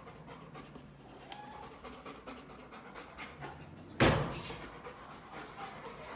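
A dog panting, with a sudden loud thump about four seconds in.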